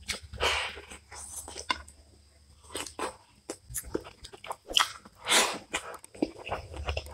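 Close-miked chewing of a handful of rice and rohu fish curry: wet clicks and smacks of the mouth, with two longer, louder noisy bursts, one just after the start and one about five seconds in.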